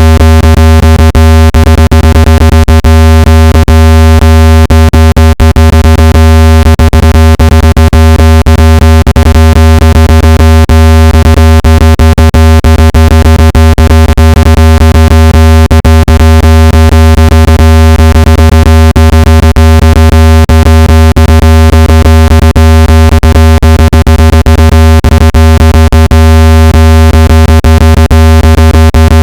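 Synthetic speaker-cleaning tone played at full level: one steady low-pitched hum with a buzzy stack of overtones. It is meant to vibrate a phone speaker hard enough to push out water and dust.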